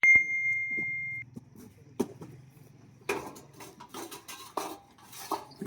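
A single steady high-pitched electronic beep lasting about a second, followed by scattered light clicks and knocks.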